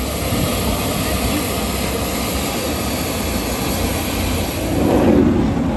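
Aircraft engine noise from a plane flying past: a steady, dense rush that swells a little about five seconds in.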